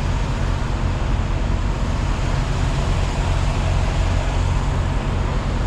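Steady low rumble of a diesel semi-truck engine idling, with no changes.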